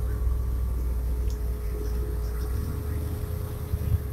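1957 Oldsmobile 88's 371 Rocket V8 running at a low, steady idle as the car creeps along, heard from inside the cabin as an even, deep engine sound.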